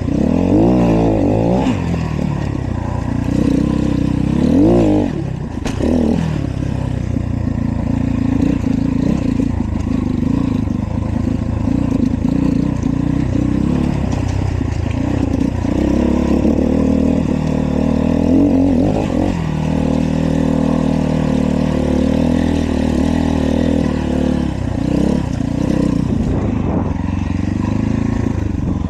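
Dirt bike engine running as it is ridden, revving up and down over and over, the pitch rising and falling several times.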